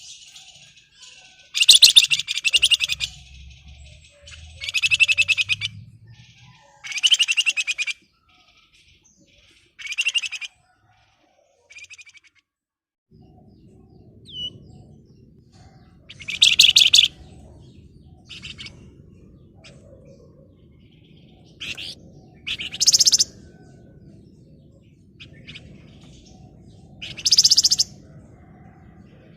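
A flamboyan songbird, as it is known in Indonesian bird-keeping, singing in dense, rapid, rattling trills. About a dozen short bursts are spaced a second or more apart.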